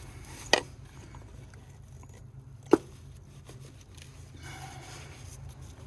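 Two sharp clicks about two seconds apart from hands working on the engine's ignition coil packs, over a steady low hum.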